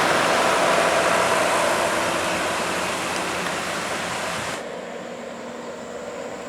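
Heavy truck driving past, its tyre and engine noise slowly fading as it moves away. About four and a half seconds in, the sound cuts off abruptly to a much quieter background with a faint steady hum.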